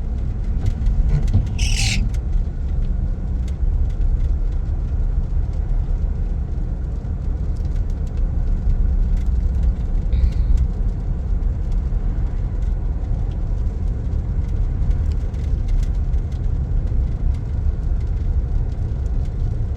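Steady low rumble of a pickup truck's engine and tyres heard from inside the cab while driving, with a brief hiss about two seconds in.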